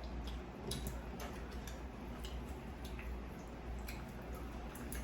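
Close-up mouth sounds of someone eating barbecue ribs: scattered, irregular small clicks and smacks of chewing, over a faint low hum.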